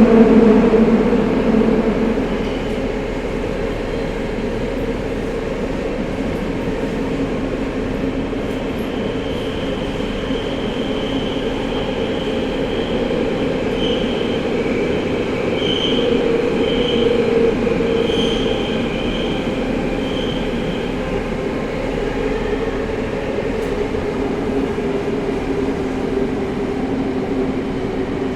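Tokyo Metro 05 series subway car with a Mitsubishi IGBT-VVVF drive, heard from inside the car running through a tunnel. The steady rumble and motor hum ease off over the first few seconds, then settle. Short high wheel squeals come and go in the middle.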